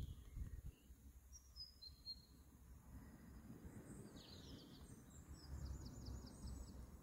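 Faint birdsong over a low background rumble: a few short high whistles, a falling call about four seconds in, then a quick run of about eight short notes near the end.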